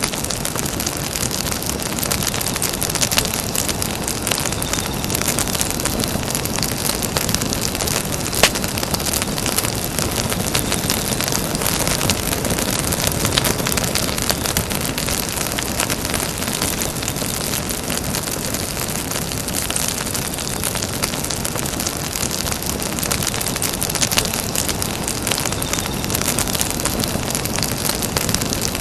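Campfire burning with a steady crackle, scattered sharp pops standing out now and then.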